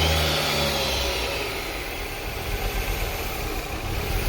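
Ford Focus ST/RS engine running just after being started, held at higher revs for about the first second and then settling to a steady idle. It is the engine's first runs after being worked on and brought back to life.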